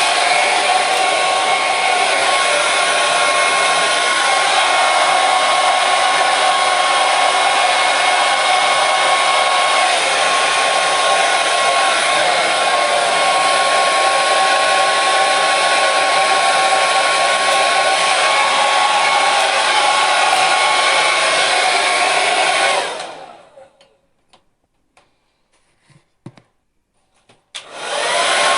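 Hair dryer running steadily: a loud rush of air with a constant whine. About 23 seconds in it is switched off and winds down, a few faint clicks sound in the quiet, then it starts up again just before the end.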